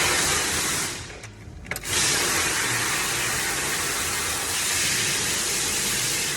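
Two bursts of hissing, rushing air: a short one of about a second, then, after a brief pause, a long steady one of nearly five seconds.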